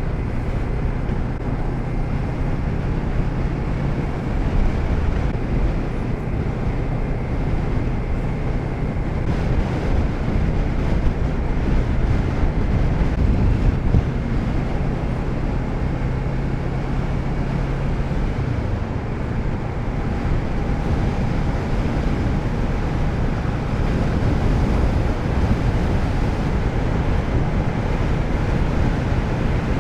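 Motorcycle riding at steady road speed, heard from the rider's microphone: a Kawasaki Z650RS parallel-twin engine running under wind rush and road noise. The engine note changes a little over halfway through.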